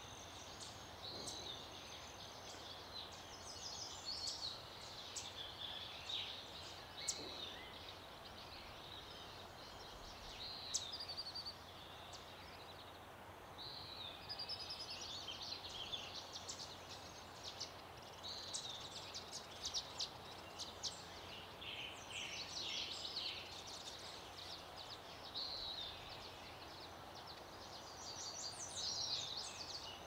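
Wild birds chirping and twittering in many short, overlapping phrases over a soft, steady outdoor hiss, with a couple of sharp ticks.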